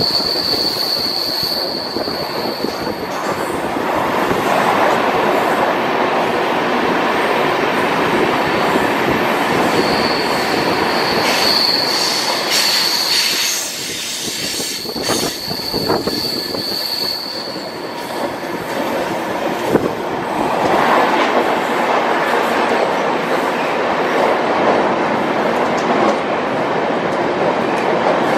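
Passenger train coaches running downhill, heard from an open doorway of the coach: a continuous rumble and rattle of wheels on the track. A high, steady wheel squeal sounds at the start and comes back from about ten to eighteen seconds in.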